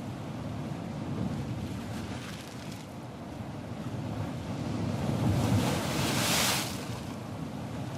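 Ocean surf: waves breaking and washing in with a steady rushing hiss. A bigger wave swells up about five seconds in and rushes in loudest for a second or two before falling back.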